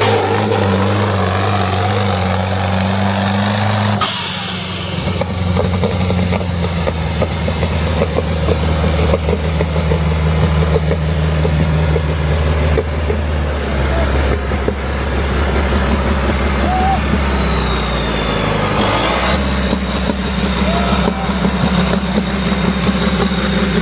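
Heavy diesel tractor engine running steadily. Its pitch drops about four seconds in, settles lower around the middle and rises again about three quarters of the way through, while a faint high whine glides slowly downward.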